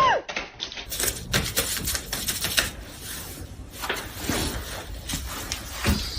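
A rapid, irregular clatter of small clicks and taps, dense from about a second in until near the end.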